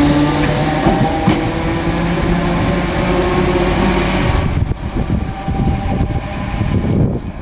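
Class 313 electric multiple unit moving through the station, a steady whine of several tones over rumbling running noise. It drops away sharply about four and a half seconds in, leaving a lower, uneven rumble.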